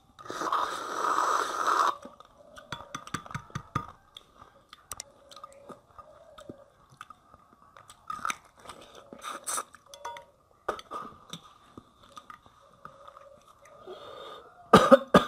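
Close-miked mouth sounds of a person eating rice and fish by hand: a loud slurp of about two seconds as food goes from the fingers into the mouth, then chewing with clicks and crunches, and a loud crunch near the end.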